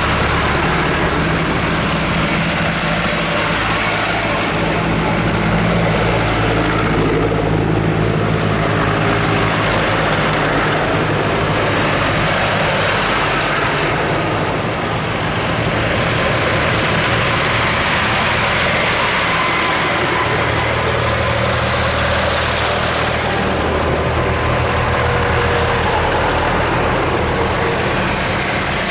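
Tractor and car engines running at low revs, a steady low engine drone whose tones shift as different vehicles move past.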